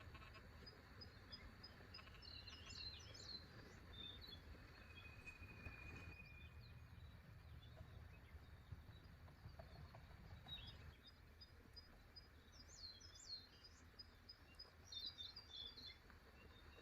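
Faint forest ambience: small birds chirping in short bursts about a second long, three times, over a low rumble that fades out about two-thirds of the way in.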